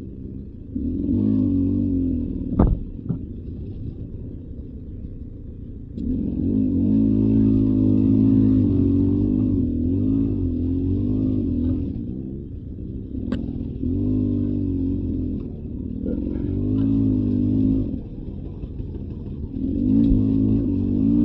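Beta 300 RR two-stroke dirt bike engine riding a trail, the throttle opened and closed in repeated bursts of revs with quieter spells between. A sharp knock comes twice, a few seconds in and about halfway through.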